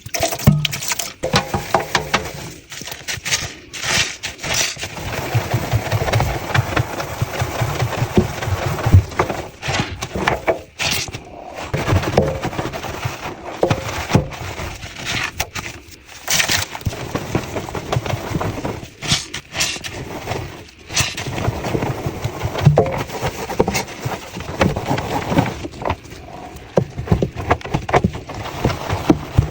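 Close-miked cleaning of a washing machine: irregular scraping and scrubbing with crackling, sharp taps and clicks, broken by a few short pauses.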